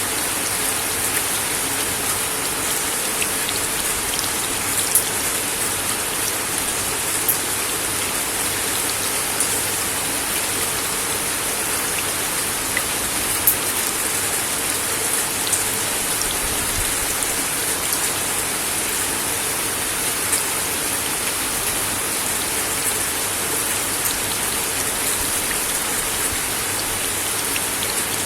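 Steady rain falling on a wooden deck, an even hiss with scattered louder drops ticking on the boards.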